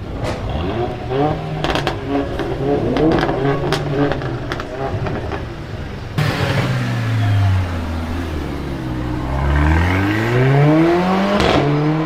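Mercedes car with a loud exhaust: the engine runs, then about halfway through the note drops and climbs steadily as the car accelerates. A sharp crack comes near the end.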